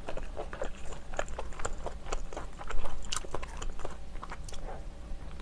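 Close-miked chewing of a mouthful of steamed clam meat: a steady run of wet mouth clicks and squishes, with a louder cluster about three seconds in.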